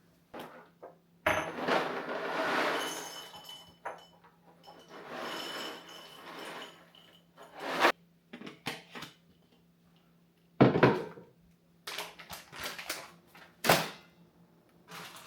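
Goldfish crackers poured into a jar, rattling in two long pours, followed by several sharp clinks and knocks as the jar and containers are handled.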